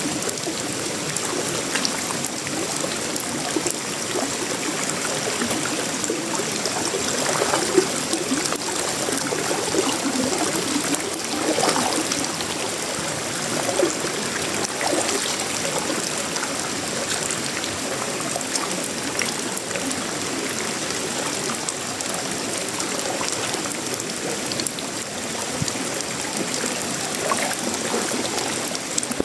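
Steady tropical rain falling on sheet-metal roofing, wood and leaves: an even hiss full of small drop ticks, with runoff water running and trickling.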